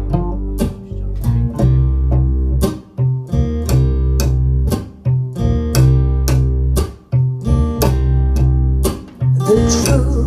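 Recorded music played over a high-end hi-fi system, Clarisys Audio Atrium speakers, during a show demo: plucked guitar notes at about two a second over a deep, sustained bass line.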